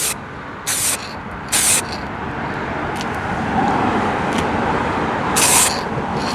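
Automotive aerosol spray-paint can hissing in four short bursts as base coat is sprayed on, over a steady rumble of wind and background noise.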